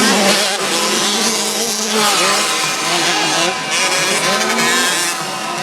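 Several 65cc two-stroke motocross bikes racing, their engines revving up and down over one another.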